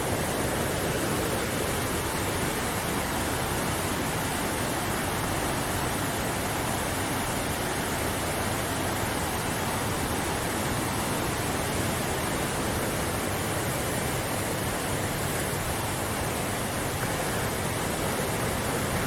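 Waterfall: falling water making a steady, even rush with no change in level.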